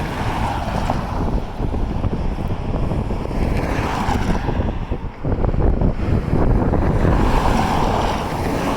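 Wind buffeting the microphone: a loud, gusting rumble that swells and dips unevenly.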